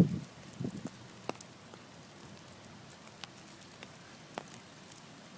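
Falling wet snow: a quiet, even hiss with a handful of scattered light ticks, after a few low thumps in the first second.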